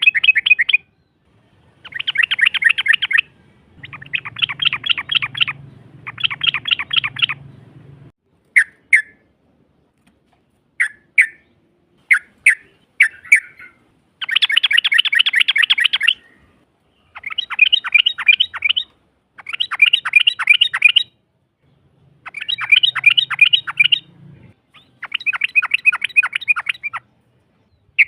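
Yellow-vented bulbul (trucukan) calling in long, very rapid rattling trills, each phrase lasting one to two seconds and repeated with short gaps. Midway there is a run of short single notes. This is the fast 'ropel' challenge call used as a lure to draw a rival bird to answer.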